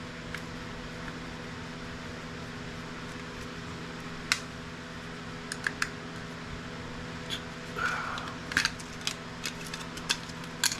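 Scattered sharp clicks and light knocks of plastic parts being handled and pried as a Polycom conference microphone is taken apart, growing busier in the second half, over a steady low hum.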